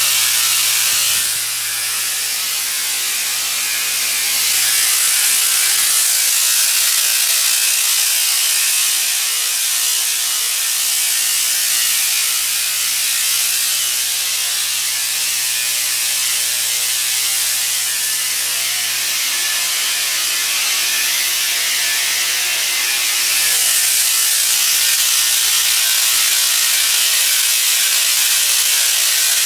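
Rea Tornado belt cleaner running on a modular conveyor belt: a steady, loud hiss with a continuous mechanical rattle and a low hum underneath, dipping slightly about a second and a half in.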